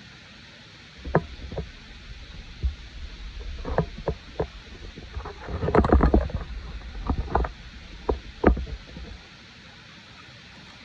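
Irregular knocks and thumps over a low rumble, about a dozen of them across eight seconds, thickest and loudest in the middle, like gear or wood being handled close to the microphone.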